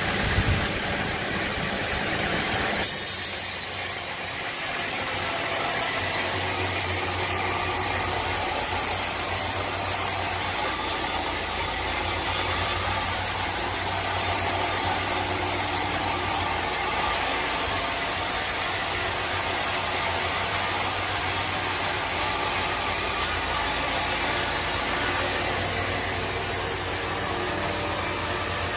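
Sawmill machinery running steadily, with a low hum under a noisy mechanical whir; the sound shifts about three seconds in and then holds steady.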